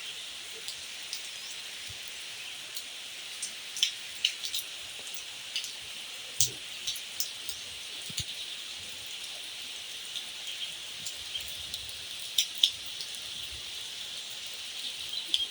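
Light, fine rain falling steadily, with scattered sharper drops hitting close by, the loudest about four, six and twelve seconds in.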